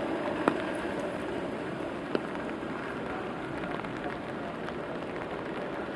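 Steady rainfall on a city street, a soft even hiss, with two sharp ticks about half a second and two seconds in.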